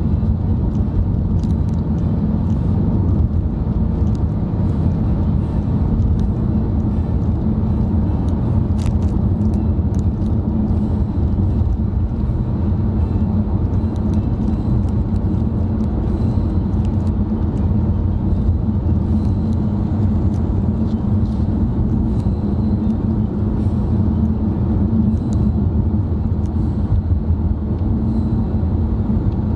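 Steady low rumble of road and engine noise from a car cruising along, heard from inside the cabin.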